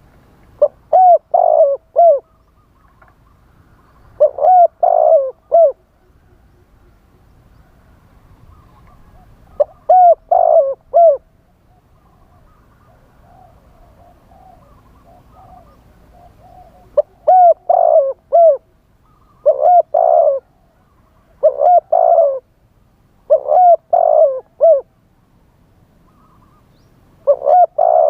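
Spotted dove cooing in the wild style: phrases of three or four short coos, each rising and falling in pitch. A phrase comes every two to five seconds, with one longer pause near the middle, and a fainter dove coos in between.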